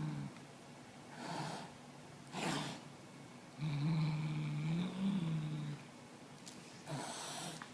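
Domestic cat growling at a toy: one low, drawn-out growl about two seconds long, bending in pitch near its end, with short breathy bursts before and after it.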